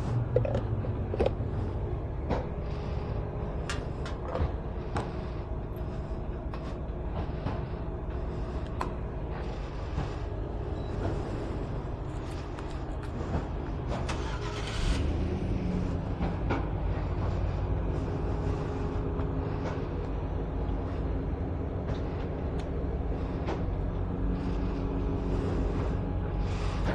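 Nearby vehicle engines running with a steady low hum, with scattered clicks and knocks of a fuel nozzle and gear being handled.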